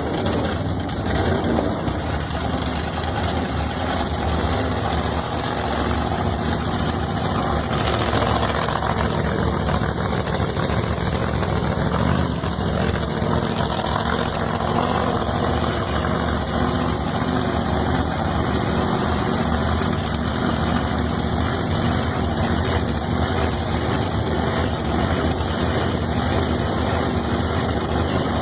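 A gasser drag car's engine idling steadily, with no clear revs.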